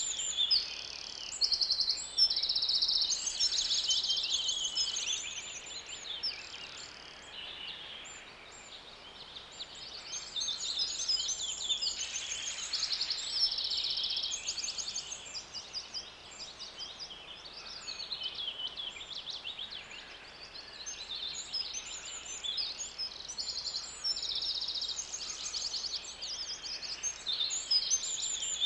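Songbirds chirping and singing: many overlapping chirps and fast, rapid trills, high-pitched, swelling and easing off in waves.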